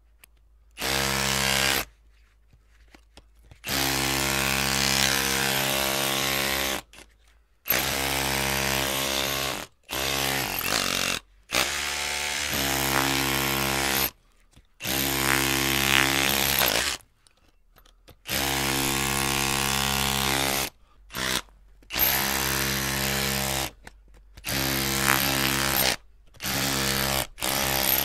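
Electric drill running in repeated bursts of one to three seconds, with short silent pauses between, about a dozen times: a steady motor whine that starts and stops abruptly.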